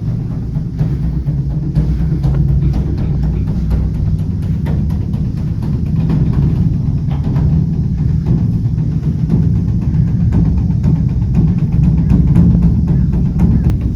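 Beopgo, the large Korean Buddhist dharma drum, beaten with two sticks in a dense, continuous stream of strokes, giving a deep, sustained drum sound.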